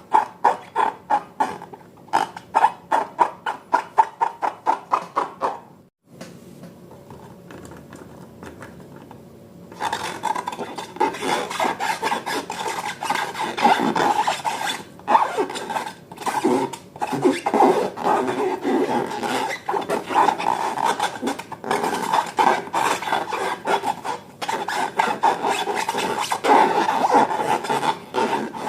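Slime being mixed and worked: rhythmic stirring strokes, about three a second, for the first several seconds, a quieter lull, then long, uneven stretches of rubbing and scraping.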